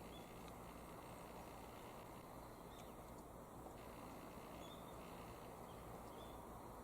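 Faint, short bird chirps, four of them spread a second or two apart, over a steady low rushing background noise.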